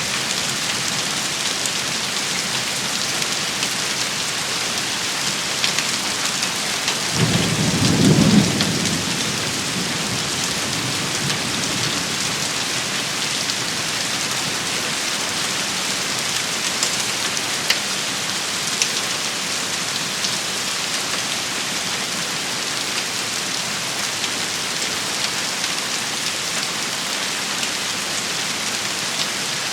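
Steady rain shower, an even hiss with scattered sharp ticks of drops. About seven seconds in, a low rumble of thunder swells for a few seconds and fades.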